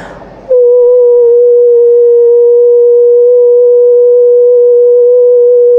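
A steady singing-bowl-like tone cuts in suddenly about half a second in and holds loud at one pitch, wavering only slightly, with a few fainter overtones above it.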